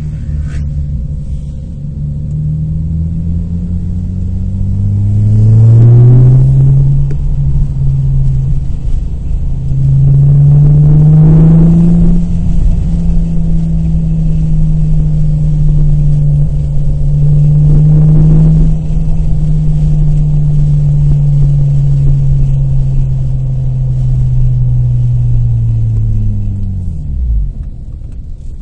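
2002 Nissan Maxima's 3.5-litre V6 pulling under acceleration: its note rises, drops at a gear change about six seconds in, and climbs again to about twelve seconds. It then holds a steady pitch for most of the rest and falls away near the end as the car slows.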